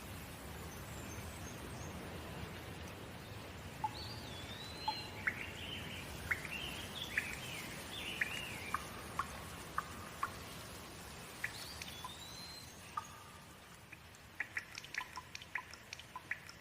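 Steady rain falling, with songbirds chirping and giving slurred whistles over it from about four seconds in. The rain thins out near the end, leaving a run of quick short ticks and chirps.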